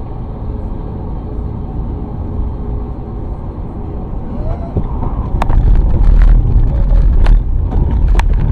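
Vehicle cab noise: a steady low engine and road rumble that grows louder about halfway through, with several sharp knocks or rattles in the second half.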